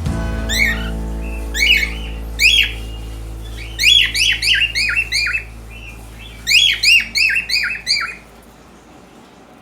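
Cockatiel calling: a few single squawks, then two quick runs of short, sharp falling calls. Background music of sustained low notes runs underneath and fades out near the end.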